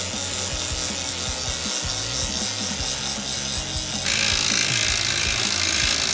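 Repeated creaking and rubbing from a BMW M4 when the steering wheel is turned, over a steady hiss: the abnormal noise the car has been making for some time, which the repair is meant to cure.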